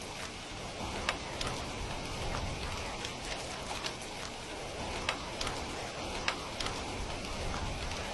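Steady rain falling, an even hiss, with scattered sharp clicks over it, the most prominent about a second in and twice past the middle.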